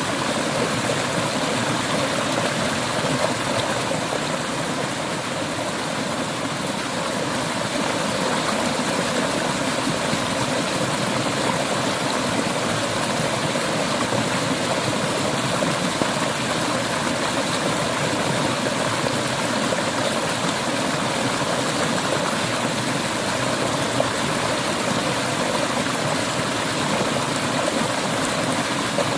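Clear mountain river water flowing and splashing, a steady rushing sound.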